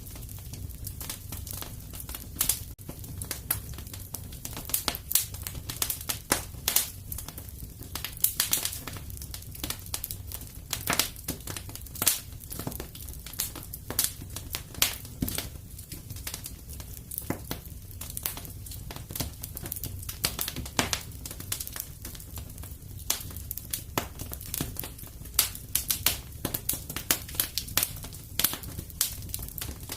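Wood fire crackling in a fireplace: irregular sharp snaps and pops, several a second and some louder than others, over a low steady rumble of the burning.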